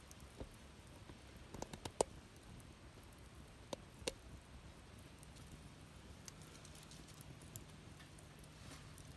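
Wood fire burning in a fire pit, crackling faintly with scattered sharp pops, the loudest about two seconds in and again around four seconds.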